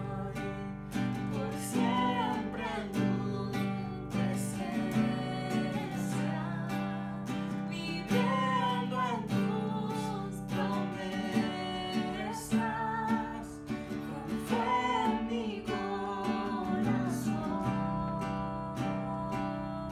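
Strummed acoustic guitar accompanying a voice singing a worship song.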